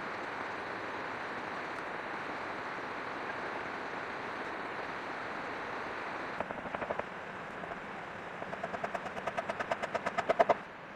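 A steady hiss, then about six seconds in a hand saw starts cutting bamboo in quick rasping strokes, about five a second. The strokes grow louder and faster and stop abruptly near the end.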